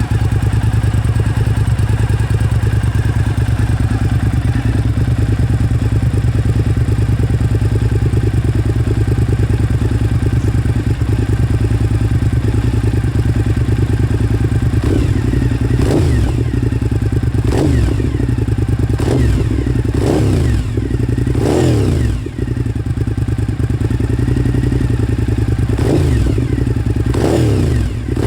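Suzuki SV1000S 90-degree V-twin with Two Brothers slip-on exhausts, a K&N filter and a de-snorkeled airbox, idling steadily, then revved in a series of quick throttle blips, each rising and falling in pitch, more frequent toward the end.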